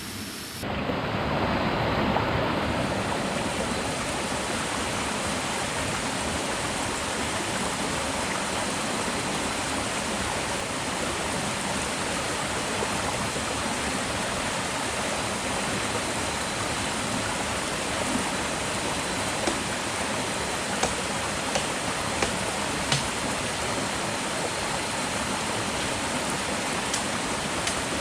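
Steady rushing water noise, rain or running water, that cuts in abruptly about a second in, with a few short sharp taps in the second half.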